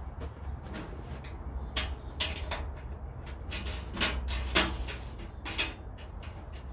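Bandsaw guard parts being handled and fitted: a series of knocks and clacks, the loudest about four and a half seconds in, over a steady low hum.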